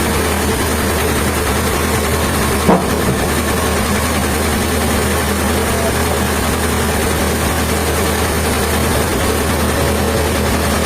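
Sawmill machinery running steadily with a low hum, and one short knock a little under three seconds in.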